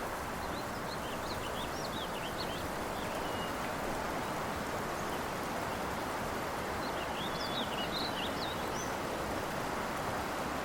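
Steady, even outdoor hiss, with small birds giving quick, rapid chirps in two flurries, one near the start and one about two-thirds of the way through.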